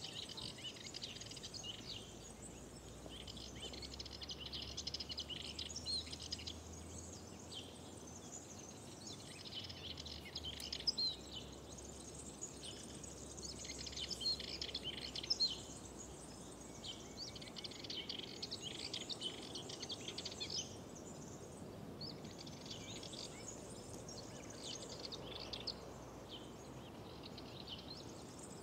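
Several small birds singing and chirping in a spring chorus, phrase after phrase with short pauses, over a faint steady background hum.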